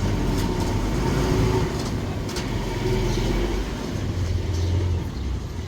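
Heavy diesel earthmoving machinery running with a steady low drone, with a couple of sharp knocks over it.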